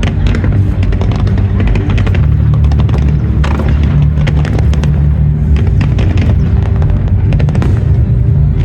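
Fireworks display: many bangs and crackling bursts over loud music with a heavy, steady bass.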